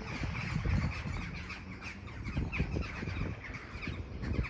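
Small garden birds chirping, many short quick calls one after another, over a low steady rumble.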